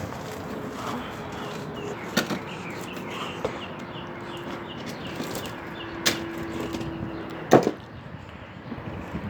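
A distant engine droning steadily over outdoor background noise, its pitch slowly falling, with three sharp knocks, the loudest about seven and a half seconds in.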